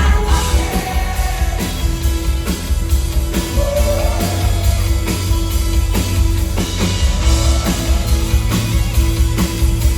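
Live rock band playing with singing: a steady drum beat, heavy bass and guitar.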